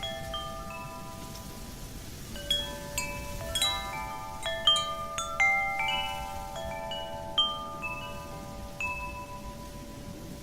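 Wind chimes struck irregularly by the wind, their clear tones ringing on and overlapping, busiest in the middle and sparser toward the end, over a steady rush of wind.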